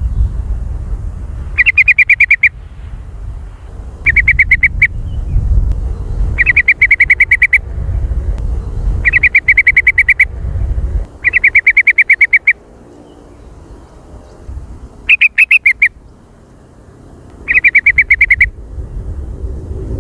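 Sooty-headed bulbul (kutilang) giving loud chattering bursts, seven in all, each about a second of quick repeated notes, coming every two to three seconds. A low rumble sits under the first half.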